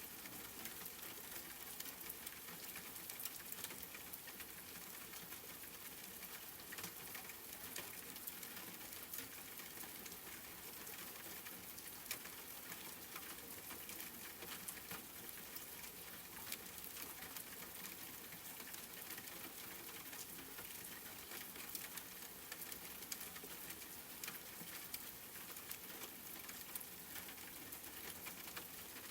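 Steady rain falling, a faint even hiss dotted with the irregular ticks of individual drops striking a surface.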